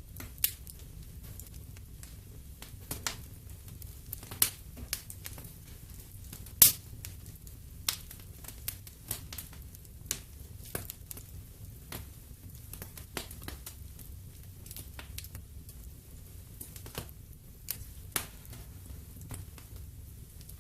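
Wood fire in a fireplace crackling, with irregular sharp pops over a soft low rumble; the loudest pop comes about six and a half seconds in.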